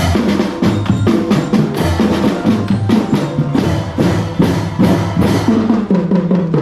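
Children's marching drum band playing, drums beating a quick steady rhythm, with the piece ending near the end.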